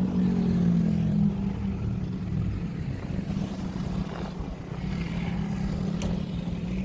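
Toyota Hiace van on the move, its engine giving a steady low hum over road rumble. A single sharp click about six seconds in.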